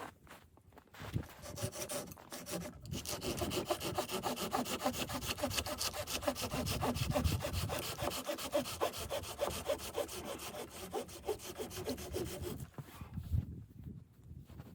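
Hand saw cutting through wood, a long run of steady back-and-forth strokes that stops near the end.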